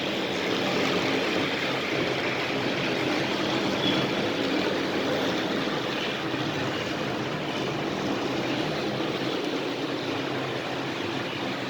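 Battery-powered motorized toy train engines running along plastic track, a steady whir that eases slightly toward the end.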